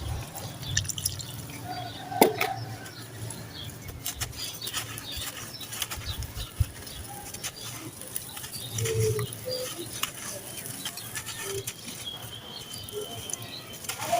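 Water soaking into a dry, gritty sand-cement mix, giving a soft fizz with many scattered small crackles and drips.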